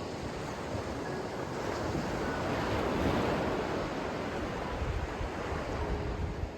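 Sea surf: a wave washes in, the rush swelling to a peak about three seconds in and then easing off.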